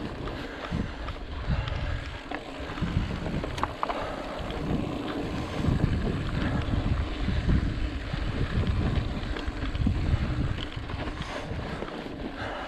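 Wind buffeting the microphone of a riding mountain biker's camera in uneven gusts, with a few sharp clicks and rattles from the bike.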